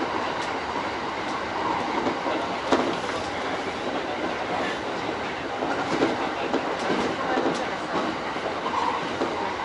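E231 series electric train running along the line, heard from inside the leading car: a steady rumble with the clicks of the wheels over rail joints every second or so.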